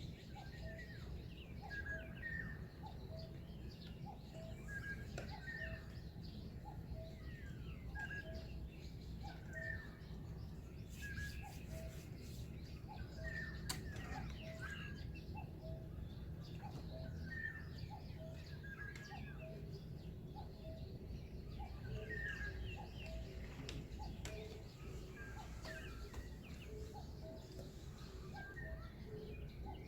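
Dawn bird chorus: several birds calling with short chirps and notes repeating over and over, over a steady low background rumble.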